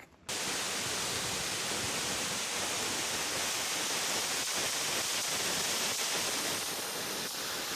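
Waterfall: a steady, dense rush of falling water that starts abruptly just after the beginning.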